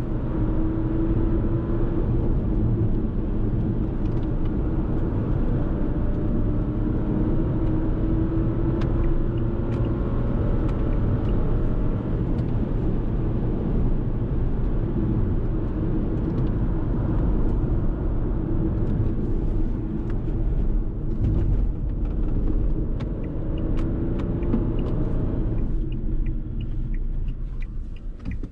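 2021 Fiat Tipo with a 1.0-litre three-cylinder turbo petrol engine driving: a steady engine drone over road rumble, with a tone that climbs slowly over the first ten seconds. Near the end the sound drops away briefly.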